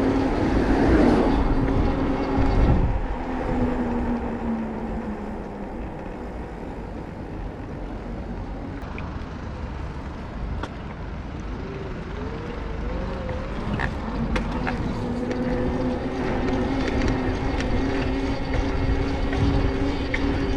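Street traffic heard from a moving bicycle: a low road rumble throughout, with a steady droning engine hum from a nearby vehicle at the start that fades after a few seconds and returns near the end.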